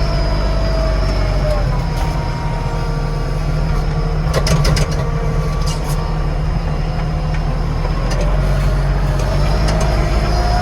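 Yanmar tractor's diesel engine running steadily inside the cab while pushing snow, with a faint wavering whine over it and a few sharp knocks about four to five seconds in.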